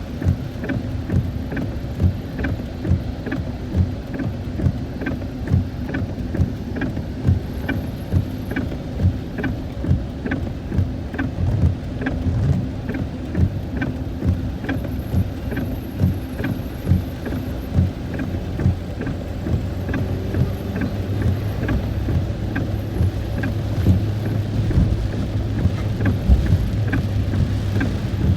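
A car driving in the rain: steady engine and road noise, with a sharp regular tick about twice a second. A steady low hum grows stronger in the last third.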